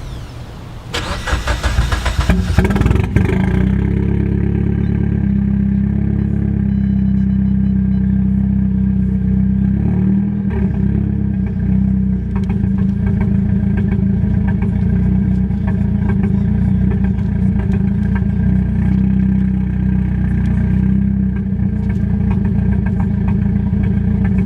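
Mitsubishi Lancer Evolution X's turbocharged four-cylinder engine with a custom exhaust, warm-started: it catches within the first few seconds and then idles steadily through the exhaust.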